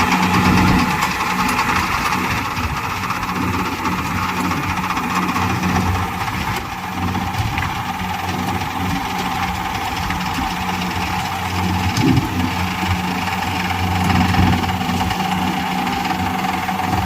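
Heavy diesel engine running steadily, with a brief knock about two-thirds of the way through.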